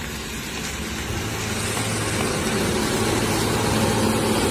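Large high-deck tour coach's diesel engine running as the bus drives past, with road noise, growing gradually louder; a low, steady engine hum comes in about a second in.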